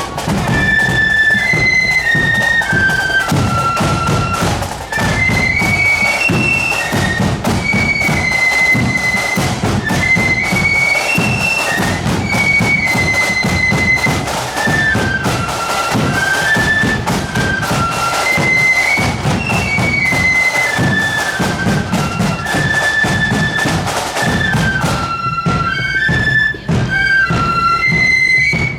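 Marching flute band playing a tune on flutes in unison, backed by the regular beat of bass and side drums.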